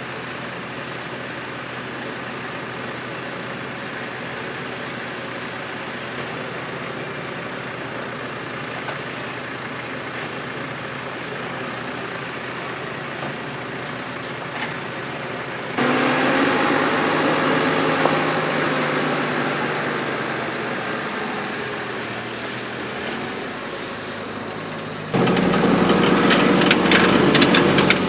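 Tractor engines working in the field, steady running with no voices. The sound changes abruptly twice, about halfway through and near the end, each time to a louder engine.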